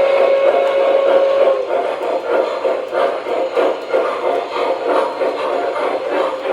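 O scale MTH Proto-Sound 2 model steam locomotive's sound system: a held steam whistle that cuts off about a second and a half in, then steady rhythmic chuffing, about two chuffs a second, as the engine runs.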